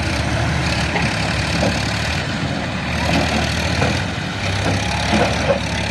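Tractor diesel engine running steadily with a low drone.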